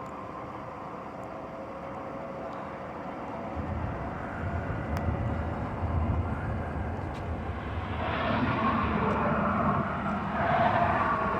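CSX diesel locomotives running light, with no cars behind them, rolling past: a low engine rumble sets in about a third of the way in and grows, and engine and wheel noise swells louder near the end.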